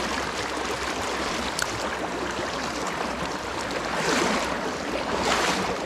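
Steady rush of running stream water, swelling louder twice in the second half.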